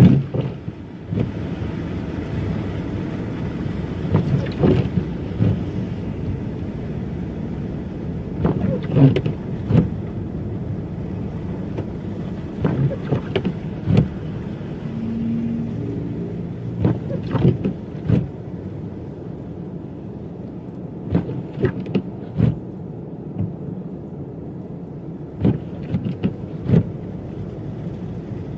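Car driving on snow-covered streets: a steady low road rumble with clusters of short knocks and thumps every few seconds.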